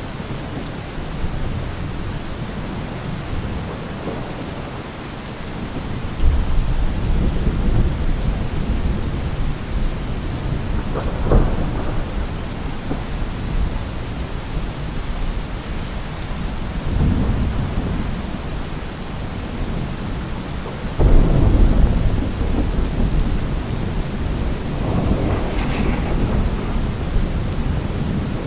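Thunderstorm: steady heavy rain with about five rolls of thunder breaking over it, one a sharp crack about eleven seconds in and the loudest a sudden deep boom about two-thirds of the way through.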